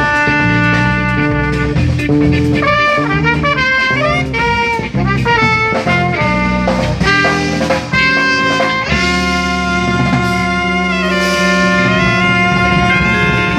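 Live instrumental jazz quintet playing: trumpet and saxophone carry the melody over drum kit, electric bass and guitar. About nine seconds in the band settles onto long held notes.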